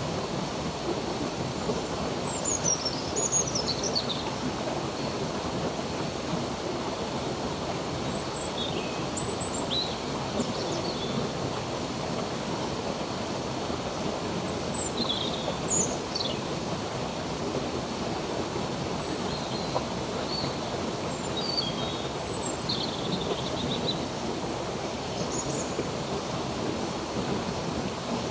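Flowing stream water running steadily, with small birds chirping on and off above it in short high chirps and quick falling whistles, busiest a few seconds in and again around the middle.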